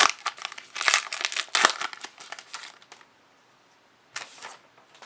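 Foil trading-card pack being torn open and crinkled by hand. Dense crackling for about three seconds, then a short crinkle a second later.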